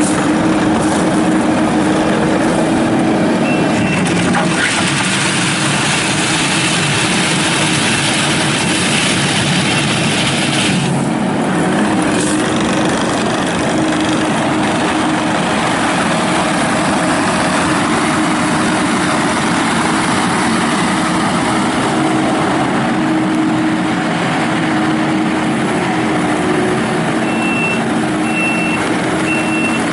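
Kubota SVL95-2S compact track loader's diesel engine running steadily under operation, the noise swelling for several seconds early on. Its backup alarm beeps briefly a few seconds in and again three times near the end as the machine reverses.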